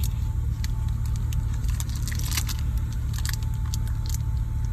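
Car engine idling, a steady low rumble heard from inside the cabin, with scattered light clicks and rustles.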